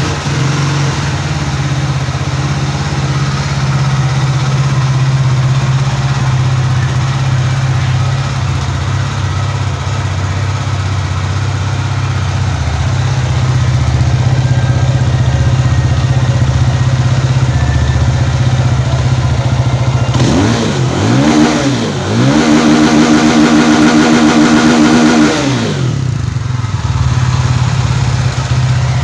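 Benelli TNT 25 motorcycle's single-cylinder engine idling steadily. Past twenty seconds in it is revved twice: a short blip, then a rev held for about three seconds before it drops back to idle.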